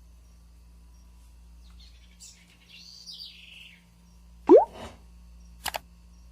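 Birds calling: a wavering chirp about two to four seconds in, then a short, loud rising whistle past the middle. Two quick clicks follow near the end.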